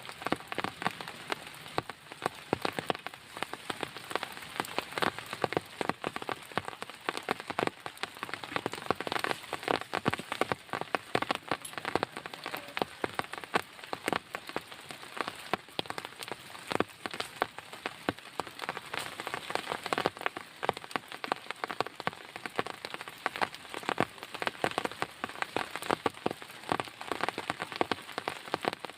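Heavy rain falling steadily, with many close drops striking a surface as a dense, irregular stream of sharp taps.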